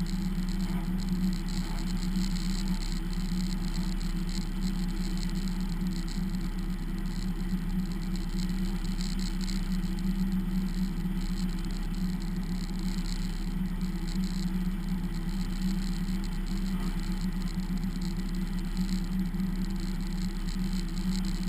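Race car engine running at a steady, unchanging pitch, without revving.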